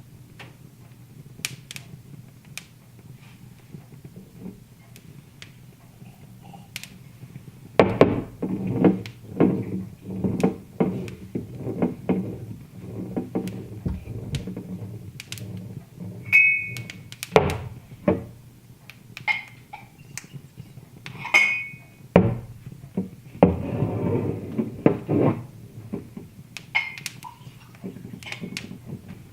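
Wood fire in a fireplace crackling, with irregular sharp snaps and pops. The crackling gets busier and louder about a quarter of the way in and again later on, with a couple of short ringing pings in between.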